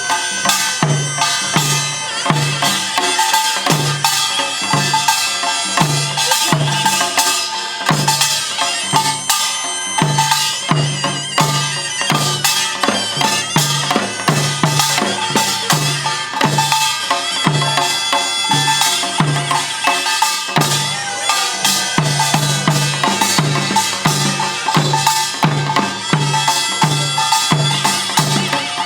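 Korean pungmul percussion ensemble playing: drums keep a steady low beat a few strokes a second under dense, clanging metal gong strokes.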